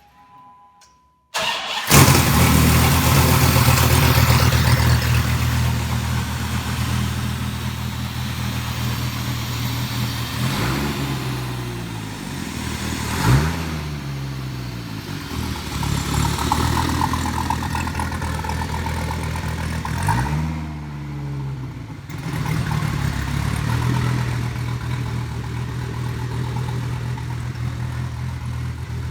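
Twin-turbocharged 8.3-litre V10 of a 2004 Dodge Viper SRT-10, cold-started. A brief two-tone chime sounds, then a short crank, and the engine catches loudly and settles to idle. It is revved three times, about ten, thirteen and twenty seconds in, the second blip the sharpest.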